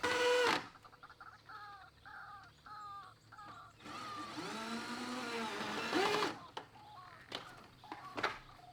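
Bird calls: a short loud call, then a run of quick repeated notes, then one long call of about two seconds that rises and falls in pitch. A few sharp knocks follow near the end.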